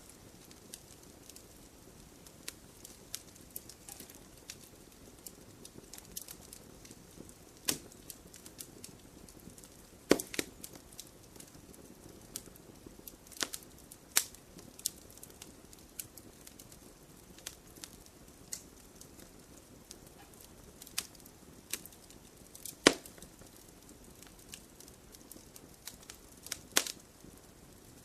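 Campfire wood crackling and popping: irregular sharp snaps over a soft steady hiss of burning, with a few louder pops, the loudest about ten seconds and about twenty-three seconds in.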